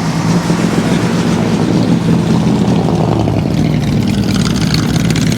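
A loud vehicle engine running close by, a steady low drone with a rapid pulsing rattle of exhaust over it.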